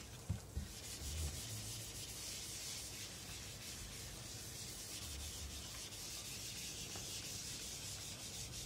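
Faint, steady scratchy rubbing of a pen or marker writing on a surface, with a few soft knocks about a second in.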